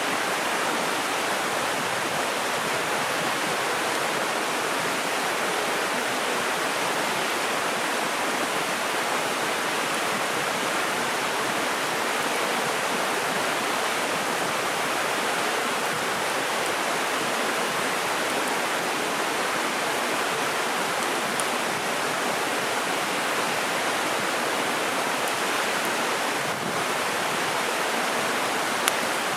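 Mountain river rushing steadily over rocks, an even wash of water noise, with one small click near the end.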